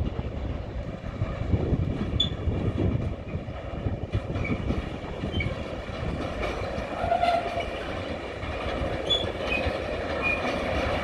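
A freight train of rail tank wagons rolling past at steady speed, its wheels rumbling on the track, with short high-pitched wheel squeals now and then.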